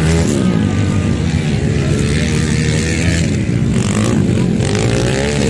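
Dirt bike engines revving, their pitch rising and falling over and over, with a steady noise underneath.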